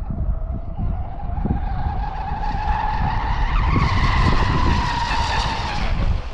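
Pro Boat BlackJack 24 RC catamaran's brushless motor and brass propeller whining on a full-throttle speed pass, over a low rumble. The whine rises in pitch to a peak about four seconds in, eases slightly, then cuts off near the end.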